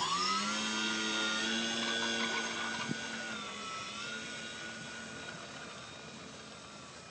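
Radio-controlled CAP-232 model aerobatic plane running at high throttle with a steady, slightly wavering pitch that slowly grows fainter.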